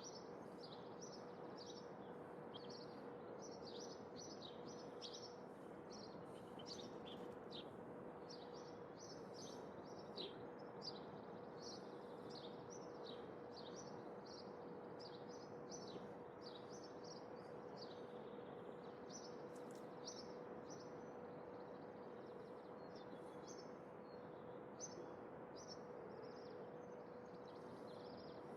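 Small birds chirping in many quick, short calls, dense for the first half and thinning out later, over a steady background hiss with a faint steady hum.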